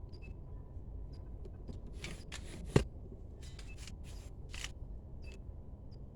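Hands working the plastic interior parts of a 2009 Toyota Matrix's dash to get at the cabin air filter: a few short rustling scrapes, with one sharp plastic click about three seconds in.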